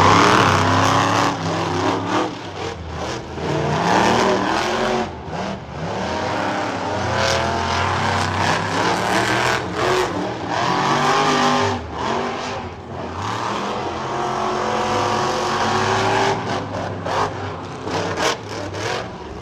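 Monster truck engines revving hard in a race, their pitch repeatedly rising and falling as the trucks accelerate and back off.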